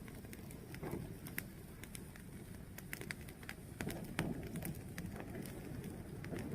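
Fire burning, with a low steady rush and irregular crackles and sharp pops.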